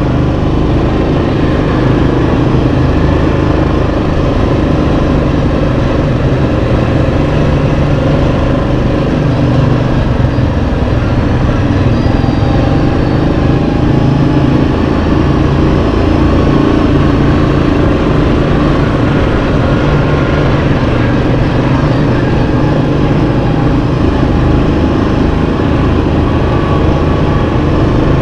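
Yamaha Kodiak 700 ATV's single-cylinder four-stroke engine running steadily, with slight rises and falls in pitch.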